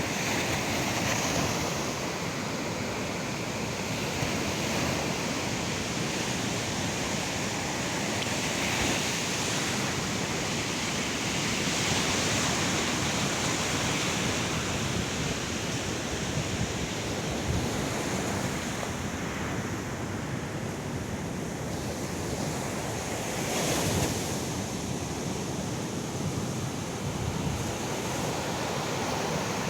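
Ocean surf washing onto a sandy beach, a continuous rush of breaking waves that swells and eases, with one wave breaking louder late on.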